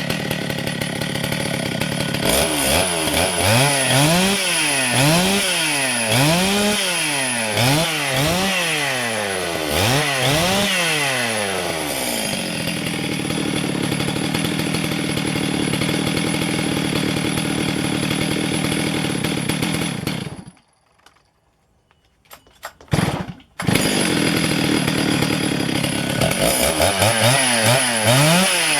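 Stihl MS 651 two-stroke chainsaw running after a cleaning, its throttle blipped over and over so the engine revs up and falls back about once a second, then held at a steady speed. About two-thirds through the sound drops out suddenly for a few seconds with a couple of short bursts, then the engine is running again and revving near the end.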